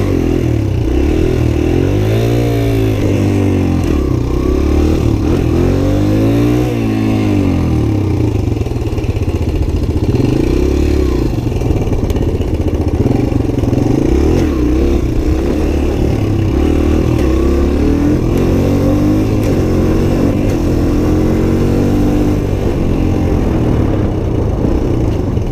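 Suzuki DR-Z125's single-cylinder four-stroke engine revving up and down in first gear as the bike is ridden, rising and falling sharply in pitch twice early on, then running at shifting revs.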